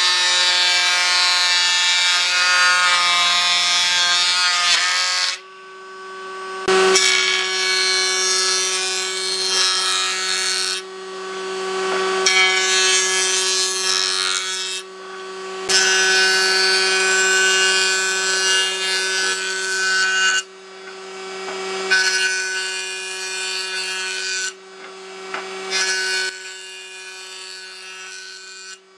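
An electric power tool running with a steady hum while it works wood in about six passes of a few seconds each; the scraping of the wood drops out briefly between passes while the motor keeps running.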